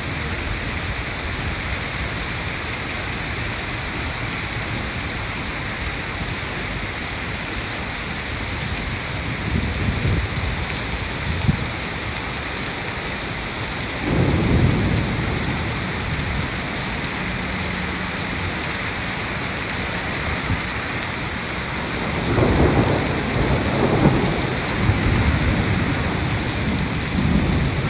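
Heavy rain falling steadily, with low rumbles of thunder swelling up several times, the strongest about 14 seconds in and again through the last few seconds.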